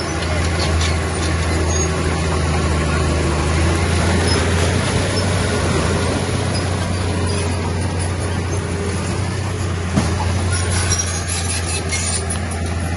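Heavy diesel engine of earthmoving machinery running steadily under load, with a single sharp knock about ten seconds in and light metallic clinks near the end.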